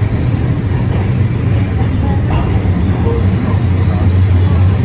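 Toronto Line 1 subway train running between stations, heard from inside the car: a loud, steady rumble of wheels on track with a faint high whine.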